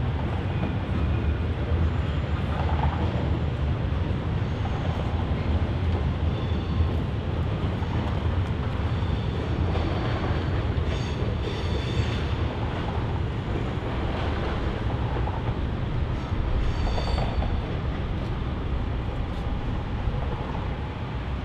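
Electric suburban trains running over a railway viaduct: a steady low rumble of wheels and motors, with brief high wheel squeals about halfway through and again a few seconds later.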